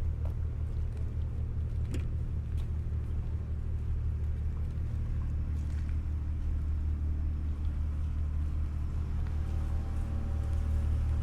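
A heavy engine running with a steady low rumble, joined by a higher steady tone about nine seconds in.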